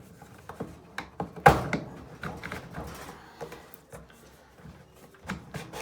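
Scattered clicks and knocks of dryer parts being handled and worked loose, with one loud knock about one and a half seconds in.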